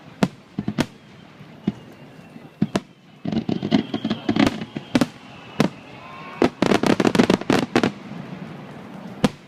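Aerial fireworks bursting: single sharp bangs spaced out at first, then two rapid volleys of many bangs, one about three seconds in and a louder one about six and a half seconds in.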